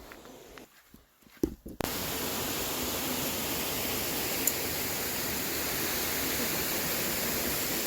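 Rushing water of a river or waterfall: a steady, even rush that starts abruptly about two seconds in, after a few faint clicks.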